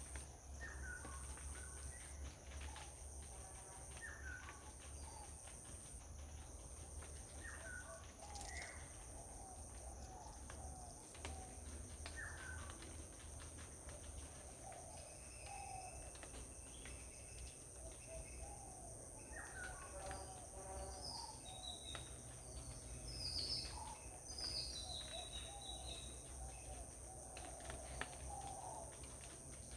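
Several birds chirping and calling, with a short rising call repeating about every two seconds in the first half and busier high chirps later on, over a steady high-pitched insect drone and a low rumble.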